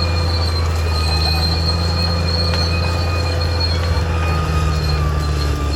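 Caterpillar D6R XL crawler bulldozer running steadily, its diesel engine giving a deep even hum under a continuous high-pitched squeal and whine of the steel track undercarriage.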